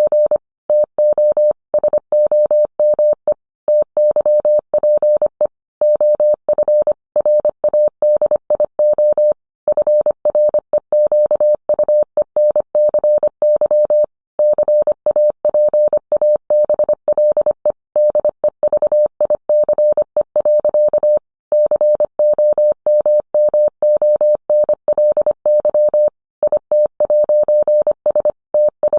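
Morse code: a single mid-pitched tone keyed on and off in quick dots and dashes, with brief pauses between groups.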